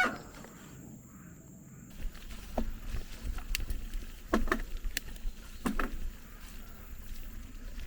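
Mountain bike knocking and rattling over a rough, rutted dirt trail: a scatter of sharp knocks, clustered in the middle, over a low rumble that starts about two seconds in.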